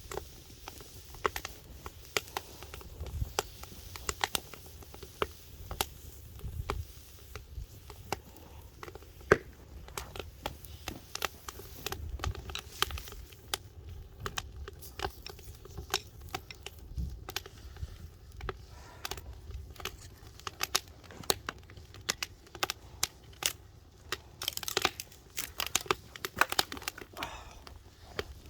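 Log wood fire crackling, with irregular sharp pops and snaps and a denser patch of crackle near the end.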